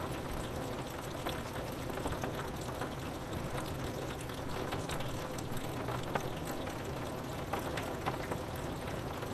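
Steady rain on a window, with many small drops tapping on the glass.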